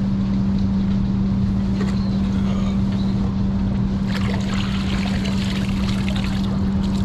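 Boat motor humming steadily at one even pitch. About four seconds in, a couple of seconds of water splashing and dripping as an object is lifted out of the lake.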